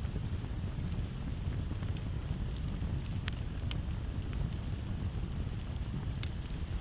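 Campfire burning with a steady low rush and scattered sharp crackles and pops of the burning wood. A steady high cricket trill runs behind it.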